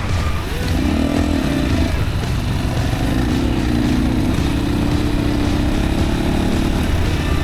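Yamaha WR155R's single-cylinder engine running on a dirt trail, its pitch rising and falling with the throttle in the first couple of seconds, then holding fairly steady from about three seconds in.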